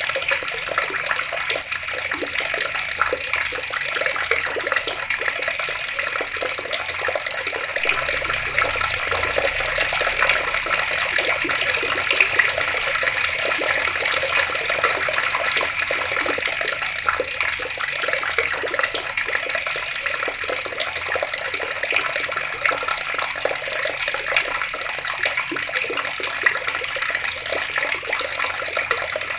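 Water running steadily from an outdoor tap: an unbroken stream splashing, with no pauses or changes.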